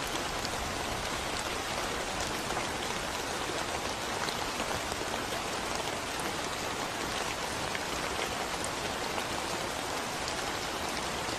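Steady rain falling on a concrete road, with single drops ticking here and there.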